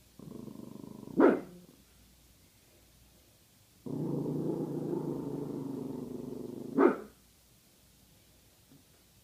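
Chihuahua giving a low warning growl that breaks into a single sharp bark, twice: a short growl and bark about a second in, then a longer growl of about three seconds ending in another bark.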